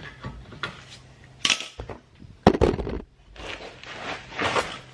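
Metal tools and parts clattering and clinking as they are handled, in a few separate knocks, the loudest about halfway through.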